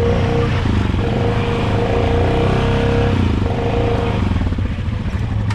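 ATV engine running steadily at high revs, with its note changing about four seconds in.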